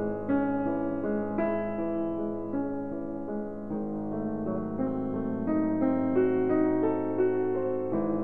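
Background piano music: a melody of notes changing every half second or so over steady low notes.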